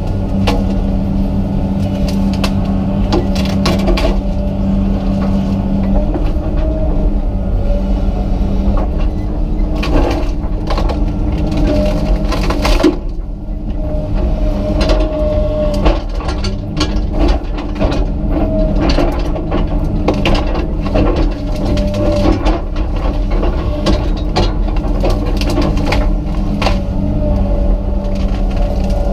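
Komatsu PC200 excavator running steadily, with a higher whine that comes and goes. Repeated cracks and knocks of wood and roots breaking as it works at a tangled root wad.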